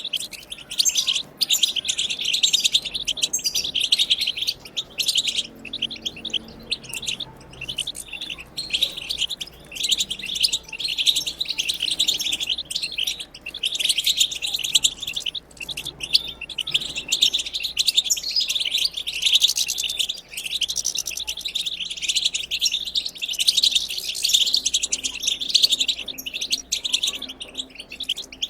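A wild European goldfinch singing its twittering song: a fast, continuous chatter of high twitters and trills, broken only by brief pauses.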